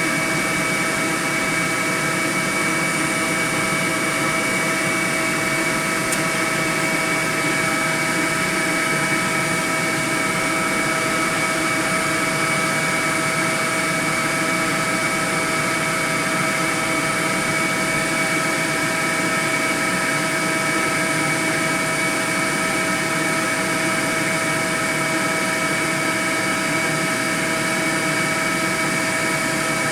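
Honey bee swarm humming: a dense, steady drone of many wingbeats that holds without a break.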